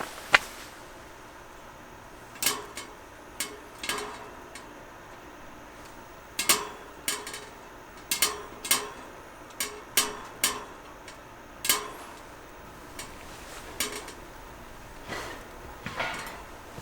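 Irregular clinks and knocks of metal cookware or utensils being handled, about fifteen sharp strikes, some ringing briefly.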